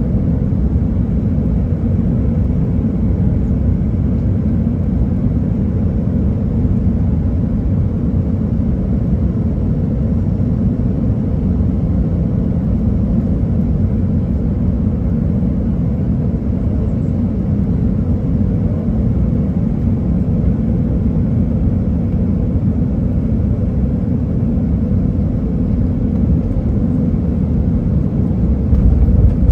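Cabin noise of an Airbus A319 rolling on the ground after landing: a steady low rumble of engines and wheels, swelling slightly near the end.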